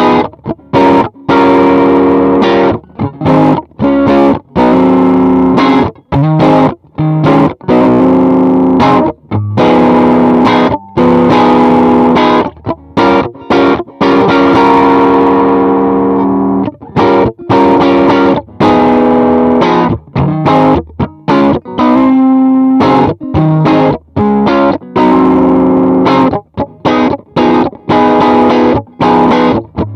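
Electric guitar played through a 68 Pedals Inca Kola, a Zendrive-style overdrive pedal: overdriven chords and riffs broken by many short stops.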